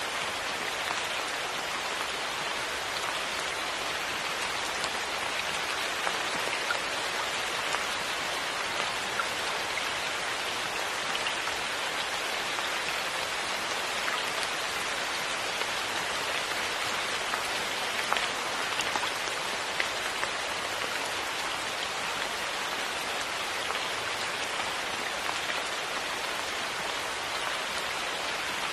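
Steady rain, an even hiss with scattered sharper drops pattering on a surface.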